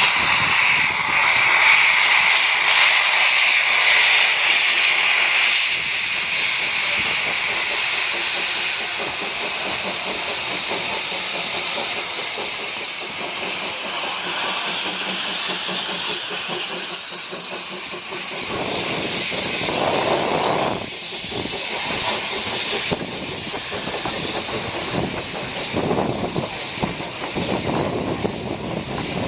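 Narrow-gauge steam locomotive hissing steam, a loud steady hiss; from just over halfway in, heavier sounds of the train join it.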